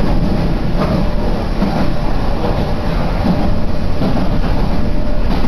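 Meitetsu Seto Line electric commuter train running, heard from inside the passenger car: a steady loud rumble of wheels on the track.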